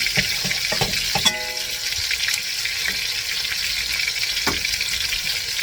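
Chicken breasts searing in a hot pan: a steady sizzle, with a few light clicks about a second in.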